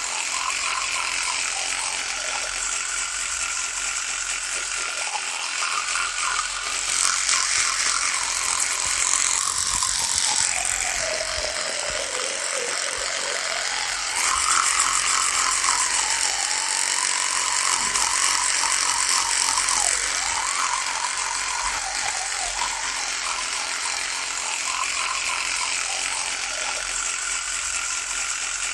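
Electric toothbrush running with a continuous buzz. About midway its pitch sags lower and then climbs back up, and it is a little louder in two stretches.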